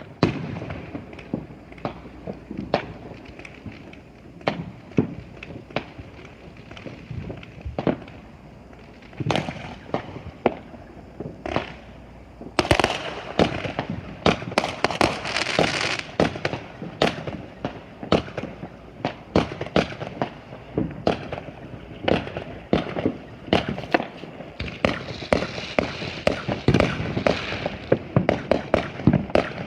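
Fireworks going off: scattered sharp bangs and pops throughout, with stretches of dense rapid crackling about halfway through and again near the end.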